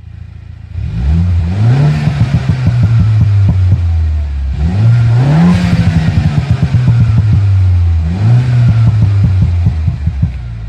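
Mini Cooper S (F56) engine and exhaust revved three times while stationary. Each rev climbs and is held for a few seconds, with popping and crackling from the exhaust around each one.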